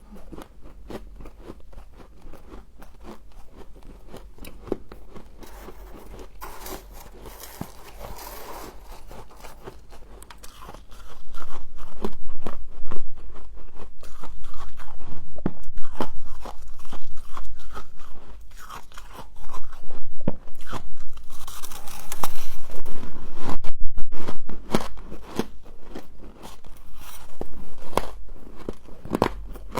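A person biting and chewing humidifier frost close to the microphone: a dense run of crisp crunches, soft for the first ten seconds or so, then much louder from about eleven seconds in.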